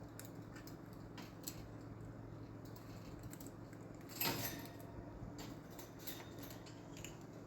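Small pet parrot making scattered light clicks and scratches, with one short, louder squeak about four seconds in, over a steady low room hum.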